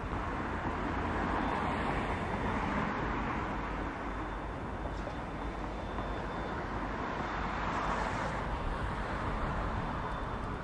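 Diesel freight train running: a steady low rumble with a rushing noise that swells about two seconds in and again near the end.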